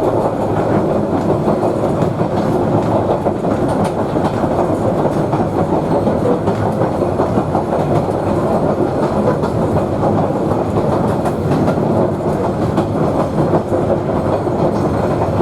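Queensland Rail 2000 class diesel rail motor running steadily at cruising speed: a continuous drone of engine and wheels on the rails, with a few faint clicks.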